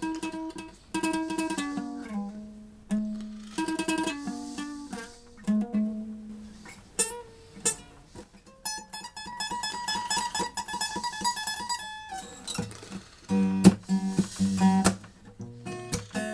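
Instrumental music on plucked strings: separate plucked notes and short phrases. About halfway through comes a passage of rapidly repeated high notes, and stronger low notes follow near the end.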